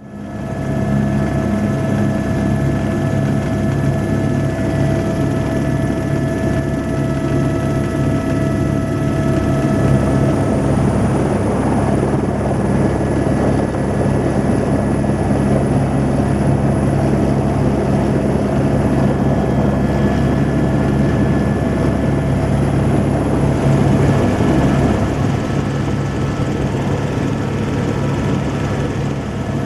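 Helicopter in flight, with steady, very loud rotor and engine noise and a constant whine. It comes in abruptly at the start.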